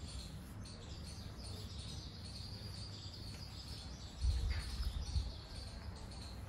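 Small birds chirping repeatedly in the background over a steady low rumble, with about a second of louder low bumping a little past four seconds in.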